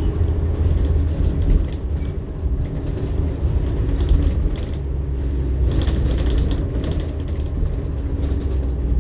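New Flyer XN60 articulated bus running, its Cummins-Westport ISL-G natural-gas engine giving a steady low drone, with rattling and clicking of loose parts that bunch together about six to seven seconds in.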